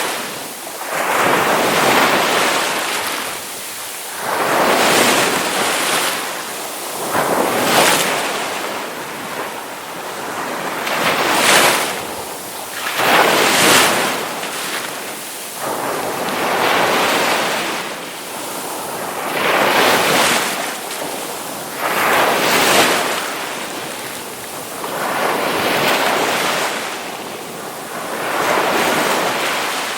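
Ocean waves breaking on a shore, the surf swelling and falling back in a rush every two to three seconds.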